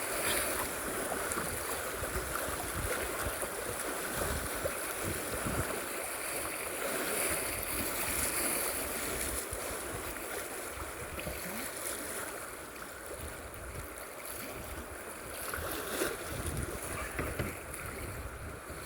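Steady hiss of fast, flooded river water flowing around a kayak, with wind rumbling on the microphone.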